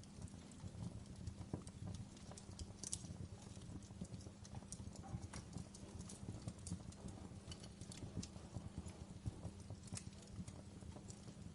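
Wood logs burning in a fireplace, crackling with irregular sharp pops and snaps over the low rumble of the flames.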